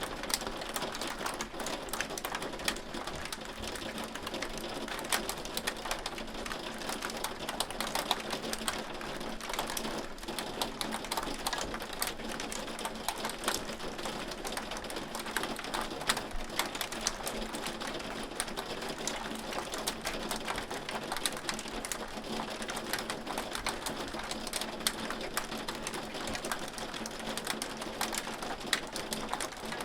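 Hail falling: a dense, steady patter of small sharp ticks and clicks over a hiss.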